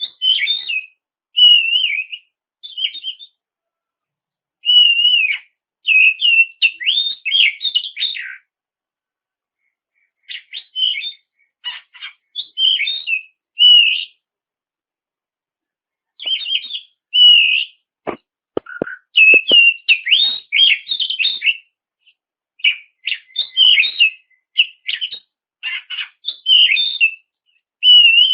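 Oriental magpie-robin singing loud phrases of rapid whistles and chattering notes, broken by short pauses. This is the bird in full song, the kind played to provoke other magpie-robins into singing back. A few short clicks sound about two-thirds of the way through.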